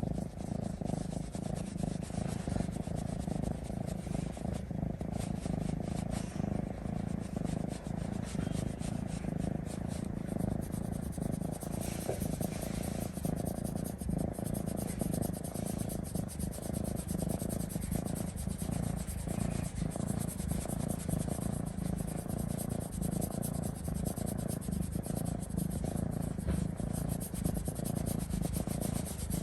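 Domestic cat purring steadily and continuously, close to the microphone.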